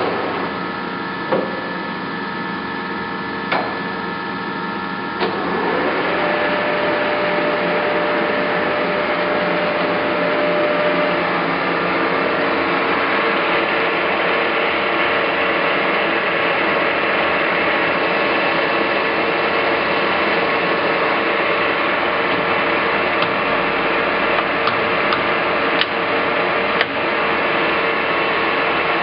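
Clausing Colchester 1760 geared-head engine lathe running, a steady mechanical hum with gear whine. A few sharp clicks come in the first five seconds; about five seconds in a short rising tone sounds and the running grows louder, then holds steady.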